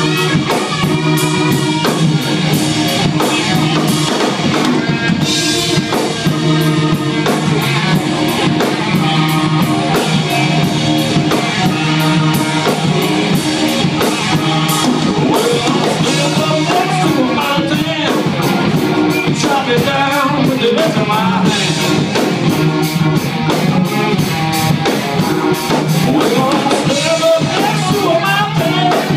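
Live rock band playing a song: electric guitar over a drum kit with a steady beat and a sustained bass line, with pitch-bending melody lines in the second half.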